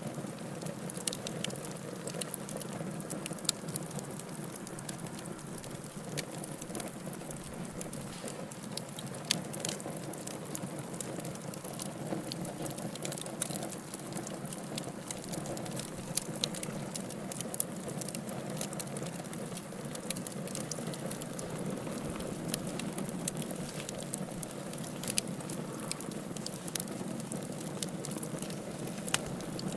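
Wood fire burning in a fireplace, with a steady low rush of flame and many sharp, irregular crackles and pops.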